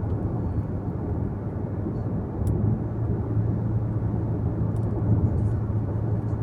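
Car on the move: a steady low rumble of engine and tyres on the road, swelling slightly in the middle.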